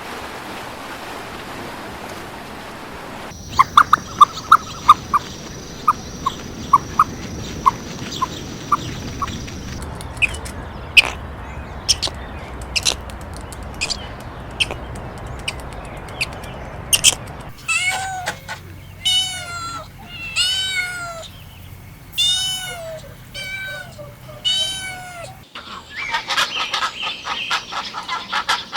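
A series of sharp clicks and taps, then a cat meowing repeatedly, several rising-and-falling meows about half a second each, in the second half, followed by a buzzy rustling stretch near the end.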